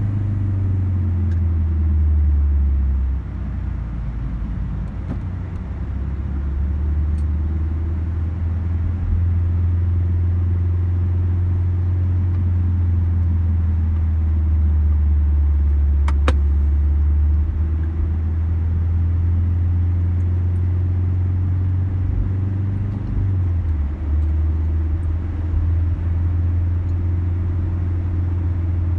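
Ford Focus RS's turbocharged four-cylinder engine and tyre noise heard inside the cabin at a low, steady cruise: a low drone that drops in pitch about three seconds in and shifts again near the end. One short click about halfway through.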